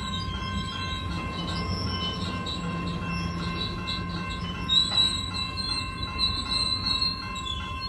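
Covered hopper cars of a freight train rolling through a grade crossing, wheels rumbling steadily, while the crossing bell rings. From about five seconds in a high wheel squeal rises over the rumble.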